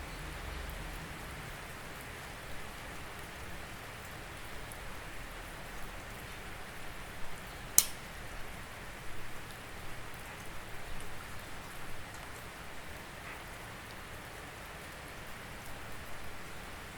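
Steady rain falling, with scattered louder drops hitting a surface. One sharp tick of a drop about eight seconds in stands out as the loudest moment.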